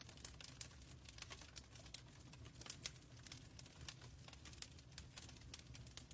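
Wood fire crackling in a fireplace: dense, irregular small pops and snaps over a steady low rumble of the flames.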